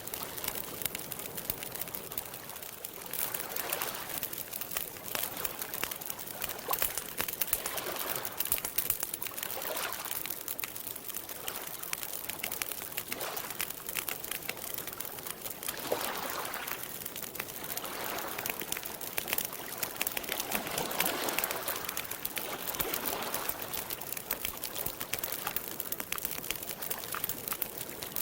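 Campfire crackling with many sharp pops, over lake water lapping in soft swells every couple of seconds.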